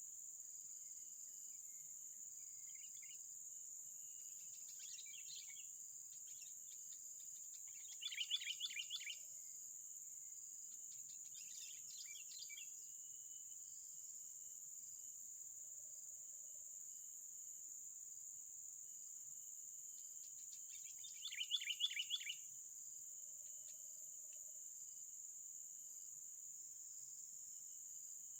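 Birds calling in short, rapid chattering bursts, the two loudest about 8 and 21 seconds in, over a steady high-pitched insect drone.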